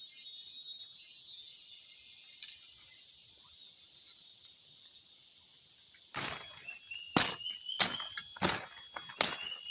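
Steady high-pitched drone of forest insects, with one click a couple of seconds in. From about six seconds in, a run of loud, sharp knocks comes roughly one to two a second.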